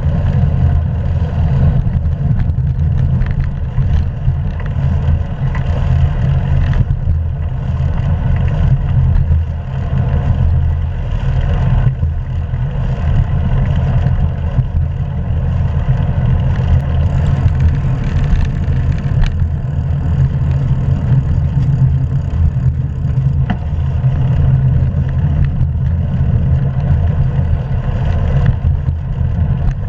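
Steady low rumble of wind and road noise on a GoPro action camera riding along on a moving bicycle, with a few faint ticks.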